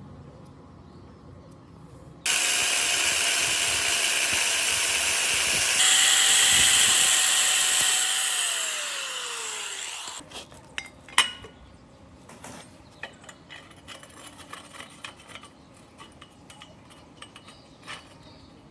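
A handheld electric power tool switches on a little over two seconds in and runs at full speed with a steady whine and a hiss, getting louder a few seconds later. It is switched off about eight seconds in and winds down, its whine falling over about two seconds, followed by scattered light metallic clicks and taps.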